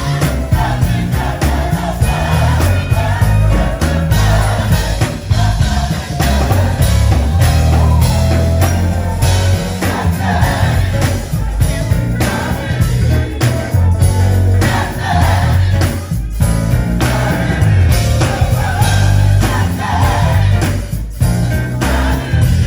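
Live gospel music: a choir singing over a band with a heavy bass line and a steady beat.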